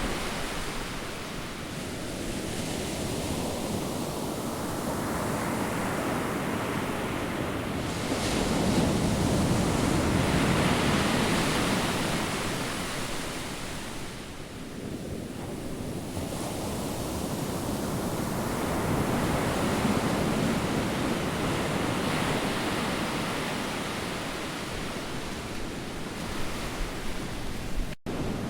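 Ocean surf breaking and washing in, swelling and easing in slow surges, with wind buffeting the microphone. The sound cuts out for an instant near the end.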